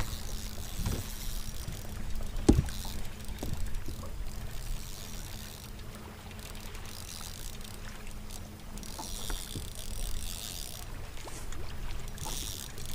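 Water lapping and splashing against a bass boat's hull, over a steady low hum, with a few sharp knocks; the loudest comes about two and a half seconds in.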